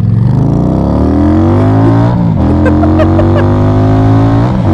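Twin-cylinder motorcycle engine pulling away under acceleration. Its pitch climbs for about two seconds, dips at an upshift, then climbs again through the next gear until a second shift near the end.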